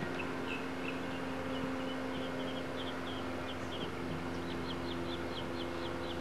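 A bird calling outdoors in a series of short, high chirps that come faster and more evenly near the end, over a steady low hum.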